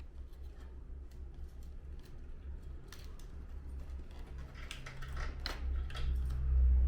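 Light clicks and snaps of plastic air-conditioner parts being handled and fitted together, growing busier about five seconds in, over a steady low hum.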